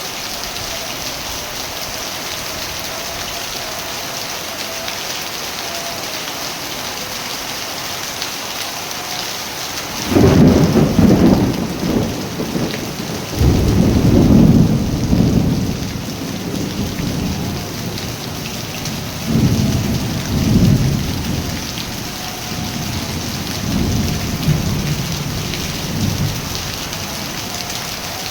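Steady rain falling, with thunder rumbling in several low rolls that start suddenly about ten seconds in, the first two the loudest, then weaker rolls fading toward the end.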